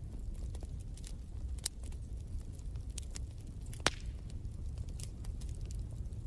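Wood fire crackling in a fireplace: a low steady rumble of the flames with scattered sharp snaps and pops, the loudest pop just under four seconds in.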